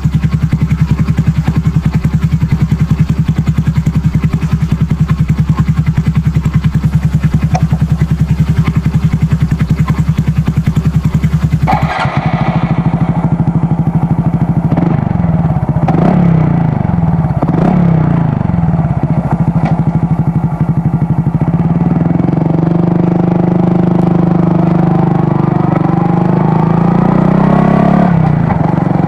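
Honda Super Cub's single-cylinder four-stroke engine through a BEAMS aftermarket muffler, idling with an even pulsing beat. About twelve seconds in it changes abruptly to the bike under way, the exhaust note rising and falling several times as it accelerates through the gears, then climbing more slowly near the end.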